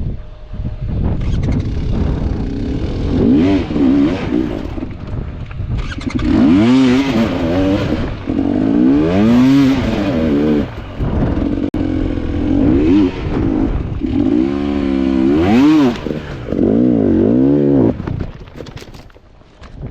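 Enduro dirt bike engine revving hard again and again, its pitch rising and falling every second or so as the throttle is worked. It drops away near the end.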